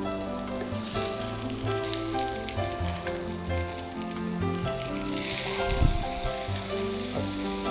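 Garlic, ginger and onion sizzling as they fry in hot oil in a pan. The sizzle grows louder about five seconds in, and there is a single knock about six seconds in.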